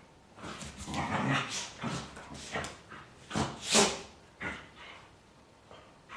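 Two dogs play-growling and yipping at each other in a string of short bursts, the loudest a little under four seconds in.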